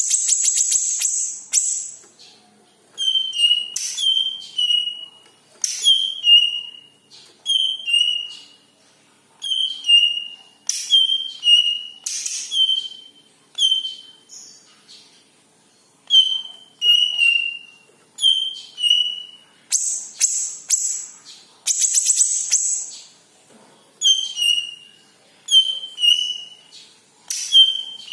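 Yellow-headed cucak ijo (green leafbird) singing: phrases repeated about once a second, each made of high chips ending in a clear falling whistle. There is a dense high trill at the start and two more about two-thirds of the way through.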